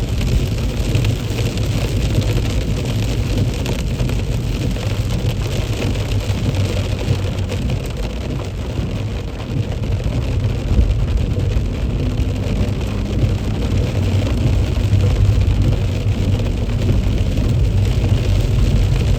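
A car driving in heavy rain: a steady low rumble of engine and tyres on the wet road, with the hiss of rain over it. It eases off for a moment about halfway through.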